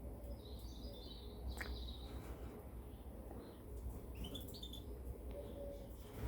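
Caged finches chirping in a few short, high calls, over a low steady rumble.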